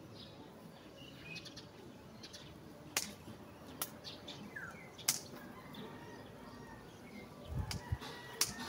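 Small birds chirping faintly outdoors, with about five sharp clicks spread through and a brief low rumble near the end.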